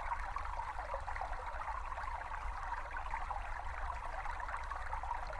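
A small brook babbling steadily, a recorded stream of water trickling and gurgling over stones, with a faint low hum underneath.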